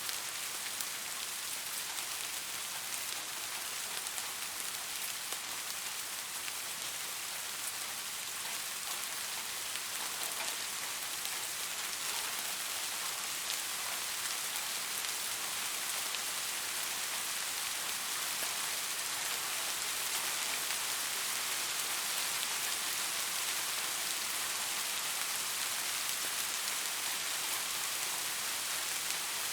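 Steady rain falling on a surface, a continuous hiss with fine patter of individual drops.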